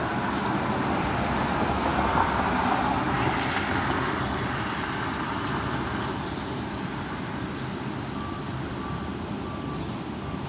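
Strong wind blowing and buffeting the microphone, a rushing noise that swells about two seconds in and then slowly eases off.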